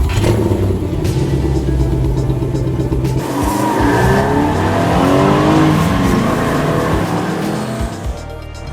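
Car engine sound effect revving, rising and falling in pitch from about three seconds in, over background music.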